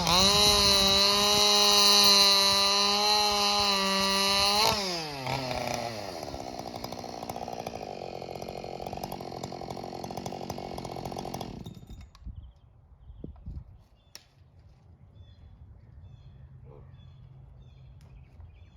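Ported Husqvarna 572XP two-stroke chainsaw running at full throttle, then released: the engine speed falls away to a steady idle about five seconds in. It idles for several seconds and is shut off about twelve seconds in.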